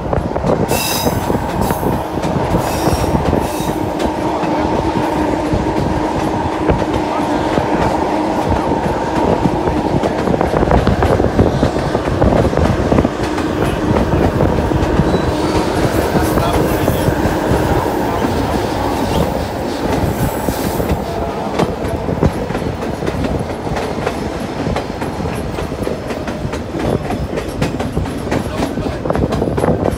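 A White Pass & Yukon Route passenger train running along the track, heard from its open platform: a steady rumble with wheels clattering over the rails. A faint steady whine rides over it through the first half, then fades.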